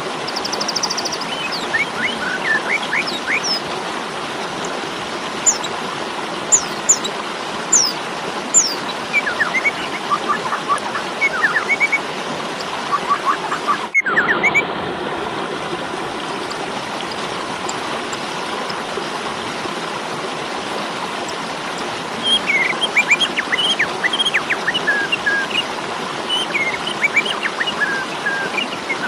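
Asian pied starling (jalak suren) in its excited fighting song, giving runs of short chirps and quick whistled notes, with a lull of several seconds past the middle and a brief break in the sound just before it. A steady hiss lies under the calls.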